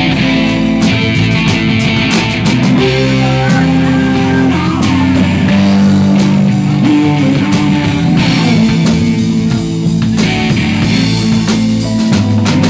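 Live rock band playing: guitar over bass with a drum kit keeping time.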